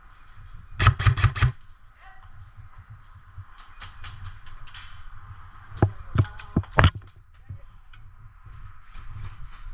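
Airsoft guns firing: a rapid burst of about seven shots about a second in, then scattered single shots and a few loud sharp cracks around six to seven seconds in.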